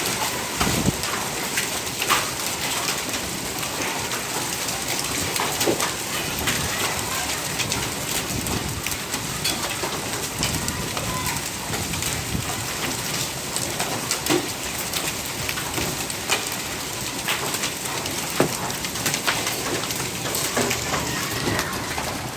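Hail falling with heavy rain: a dense, steady hiss dotted with many sharp clicks as hailstones strike hard surfaces.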